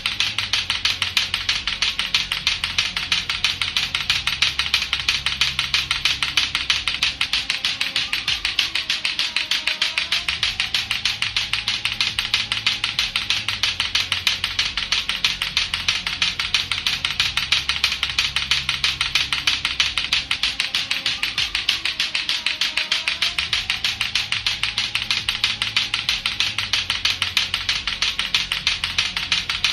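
Latto-latto clackers, two hard plastic balls on a string, knocking together in a fast, even, unbroken run of sharp clacks.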